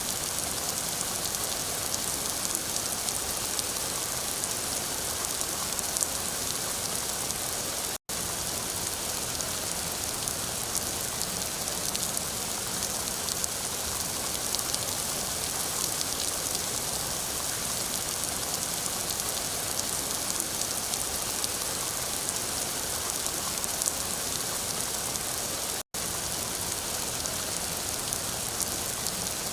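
Steady rain falling, an even hiss of many drops with scattered faint ticks. The sound cuts out completely for an instant twice.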